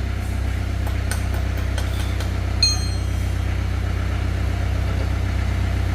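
An engine idling steadily, with a few light metallic clicks and one sharp, ringing metal clink about two and a half seconds in.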